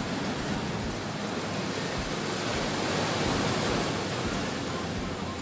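Steady rushing noise of ocean surf breaking on the shore, swelling slightly about halfway through.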